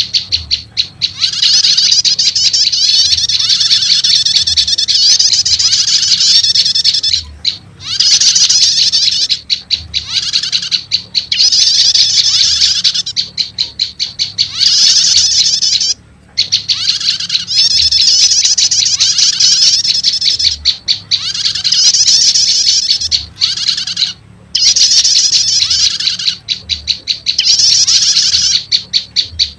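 Recorded lure calls of prenjak lumut mixed with prenjak starter calls: rapid, loud runs of high chirping notes in phrases several seconds long, broken by brief pauses.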